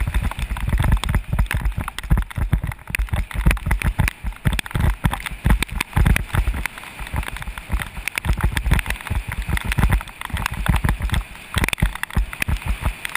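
Bicycle descending a rough road in the rain, heard through a GoPro Hero 2 riding on it: a constant jumble of low thumps and rattles from the bumps over a steady hiss of wet tyres and spray.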